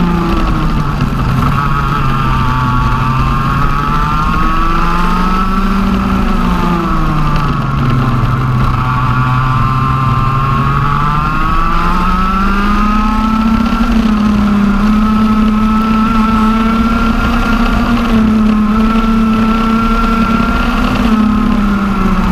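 TM OK-class 125 cc two-stroke kart engine running on track. Its revs fall and rise twice, then hold high for several seconds and drop again near the end.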